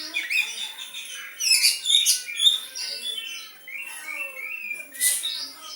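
Oriental magpie-robin (kacer) singing a varied song of short whistled phrases mixed with harsh, scratchy notes, in a style that imitates the sooty-headed bulbul (kutilang). The loudest scratchy bursts come about a second and a half in and again near the end.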